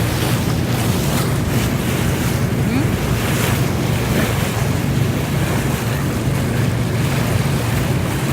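Wind buffeting the microphone on the deck of a car ferry under way, over the ferry's steady low engine drone.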